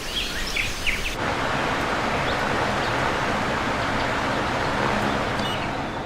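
Birds chirping over a light outdoor hiss. About a second in, a steady rushing noise cuts in and covers them, with a few faint chirps left near the end.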